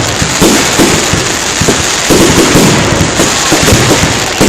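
Fireworks display: a rapid, unbroken barrage of bangs and crackles, many per second.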